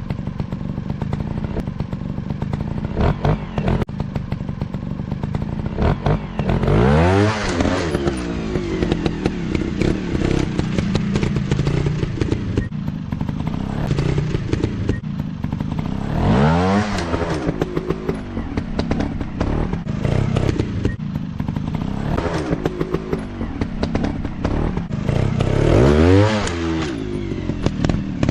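Dirt bike engine running with a clattering, rattly undertone, the throttle opened up three times, each time a rising rev: about a quarter of the way in, around the middle, and near the end.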